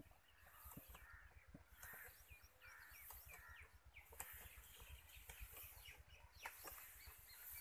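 Faint outdoor birdsong: many short, quick chirps that fall in pitch, scattered irregularly, over a low rumble.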